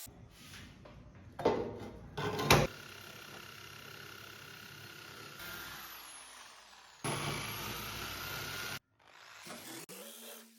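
Workshop sounds during a power tool restoration: two sharp knocks, then a power tool running steadily for nearly two seconds before it cuts off suddenly.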